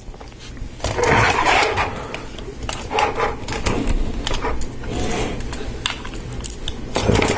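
Plastic Lego Technic parts being handled: a run of light clicks, taps and rustles, with louder handling noise about a second in and again near the end.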